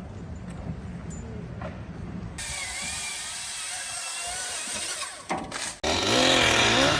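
Power saw running, its pitch wavering up and down, loudest over the last second; the sound changes abruptly twice.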